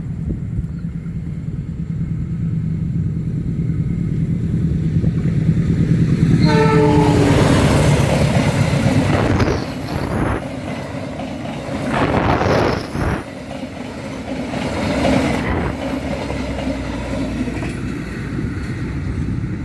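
Diesel locomotive rumbling as it approaches. Its horn sounds briefly about six and a half seconds in, and then the train passes with loud rushing noise and wheel clatter that swells and fades several times.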